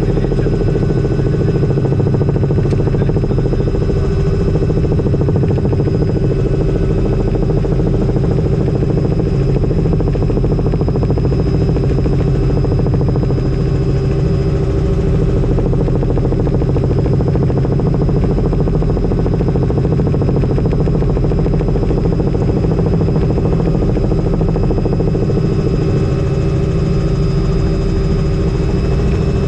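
Helicopter in flight: steady engine and rotor noise with several steady tones held over it, unchanging.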